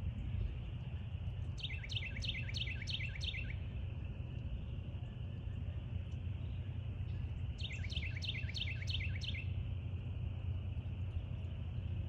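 A bird singing two short phrases, one just under two seconds in and one about eight seconds in, each a quick run of about eight downward-slurred whistled notes lasting about two seconds. Under it runs a steady low outdoor rumble.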